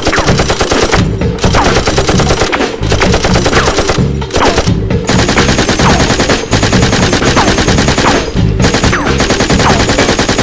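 Rapid automatic machine-gun fire sound effects in long bursts with a few brief breaks, laid over background action music.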